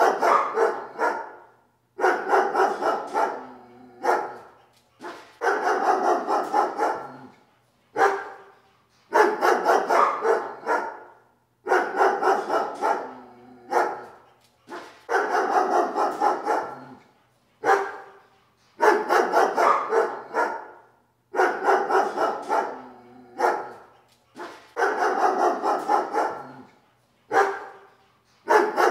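A dog barking in repeated bouts, each a quick string of barks lasting one to two seconds, with a new bout about every three seconds.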